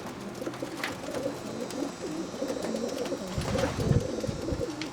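Racing homer pigeons cooing in a loft, several birds overlapping. A low rumbling noise comes in about three and a half seconds in.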